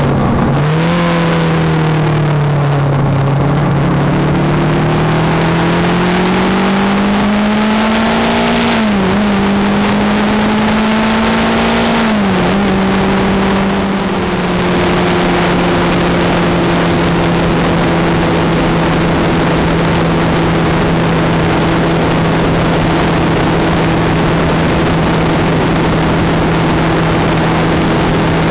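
Kawasaki ER-5's parallel-twin engine under way: it pulls up through the revs with two sharp drops in pitch at gear changes, then runs at one steady pitch at constant speed. A constant hiss of wind and road noise runs under it.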